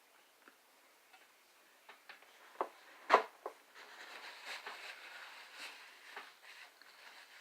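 Biting into and chewing a toasted sandwich: scattered small clicks, a sharp crunch about three seconds in, then a few seconds of crackly chewing.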